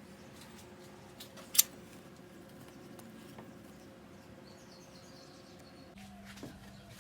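A single sharp click about one and a half seconds in, with a few fainter ticks, over a steady low hum. The hum changes abruptly near the end.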